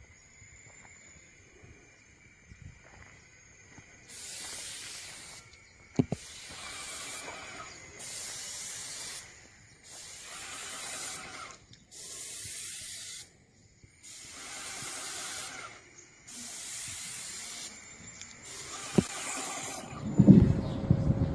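Spray nozzle hissing in eight short bursts of about a second each, one every two seconds or so. Near the end a louder, lower rumbling sound begins.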